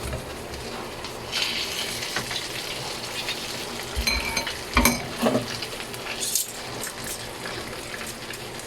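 Garlic butter sauce sizzling in a frying pan as chicken drumsticks go back in, the sizzle growing louder about a second and a half in. A few knocks and thumps of the utensil and chicken against the pan come around four to five seconds in.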